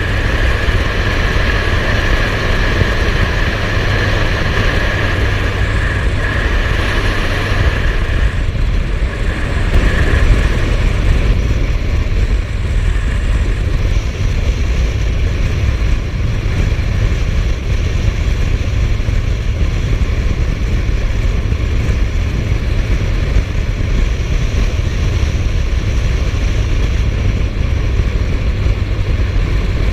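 Suzuki GSF1250S Bandit's inline-four engine running steadily under way, with constant wind rush over the microphone. A high steady whine sits over it for the first eight seconds or so, then fades.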